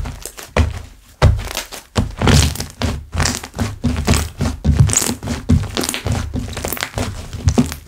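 Hands kneading and pressing slime: irregular soft thuds and squelches, several a second, with crackling pops of air bubbles bursting.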